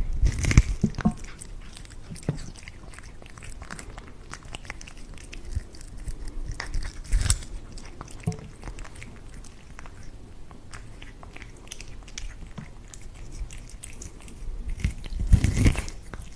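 A cat biting and chewing corn, with a steady run of close crunches and clicks and louder bouts of crunching at the start, about seven seconds in and near the end.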